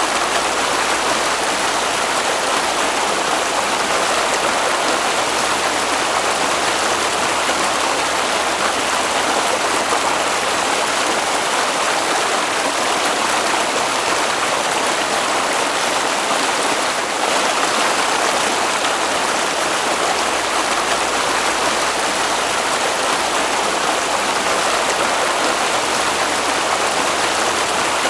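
Flowing water making a steady, unbroken rushing sound.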